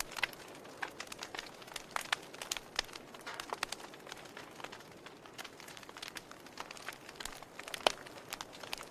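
Burning logs crackling: irregular sharp pops and snaps over a soft hiss, with one louder pop near the end.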